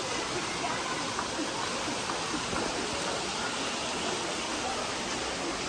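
A steady, even rushing hiss, like falling water, with faint voices murmuring underneath.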